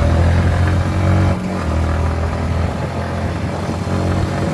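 Yamaha MT-15's 155 cc single-cylinder engine running while riding, a strong low drone that eases off about a second and a half in as the throttle comes off, then carries on more quietly.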